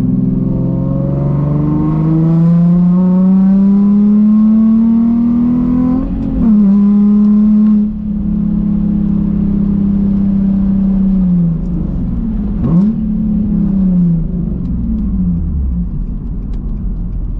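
Nissan HR V6 engine pulling hard under acceleration, its pitch climbing steadily for about six seconds, then a quick gear change and a steady run. The revs then fall off as it slows, with one short throttle blip in the middle of the slowdown.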